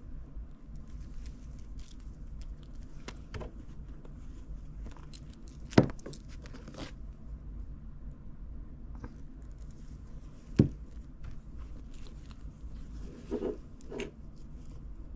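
Scattered small clicks and handling noises over a low steady hum, with two sharp knocks about six and eleven seconds in and a few softer knocks near the end.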